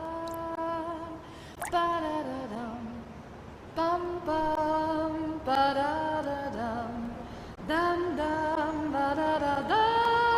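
A voice singing a wordless melody on syllables like "bum ba da dum", unaccompanied, in short phrases of held notes that slide between pitches.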